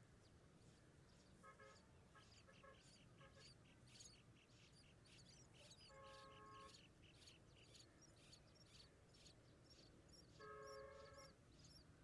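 Faint, rapid high-pitched cheeping of nestling birds, a continuous run of short chirps. A lower honk-like tone sounds briefly twice, about halfway through and again near the end.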